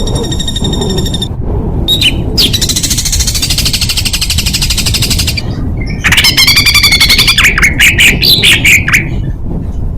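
Songbird song made of rapid, harsh shot-like phrases: a high buzzy trill at the start, a very fast rattle of notes from about two and a half to five and a half seconds, then loud repeated wavering whistles and sharp chirps.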